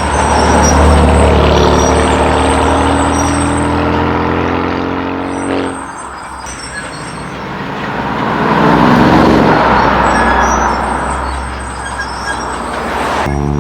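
Modified cars pulling away under acceleration. An engine revs with its pitch rising steadily and cuts off sharply about six seconds in, then a second car builds up loudly around nine seconds in, and another engine starts revving up near the end.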